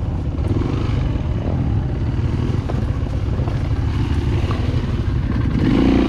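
Dirt bike engine running at low revs, chugging as it is ridden over rough ground.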